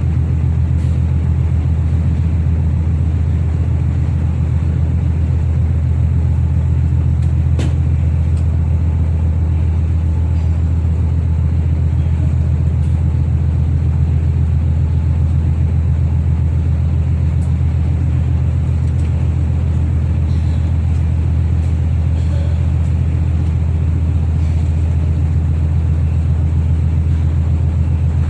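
Steady low drone of a ferry's engines, an even rumble that holds at one pitch without rising or falling.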